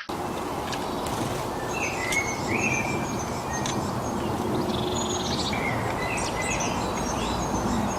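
Birds chirping, with many short high calls and a few brief rising notes, over a steady low background noise.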